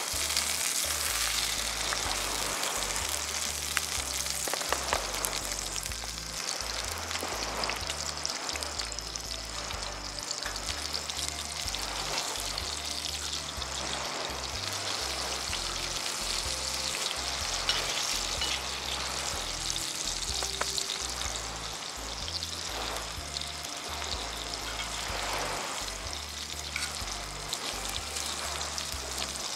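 Hamburg steak and shrimp ajillo sizzling in oil in cast-iron skillets over a charcoal grill, a steady crackling hiss, with occasional light clinks of a knife and fork cutting the patty.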